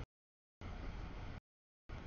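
CSX double-stack container freight train rolling past, heard as a low, rough rumble that keeps cutting out to dead silence: a brief burst right at the start, a longer one from just after half a second to almost a second and a half, and another starting near the end.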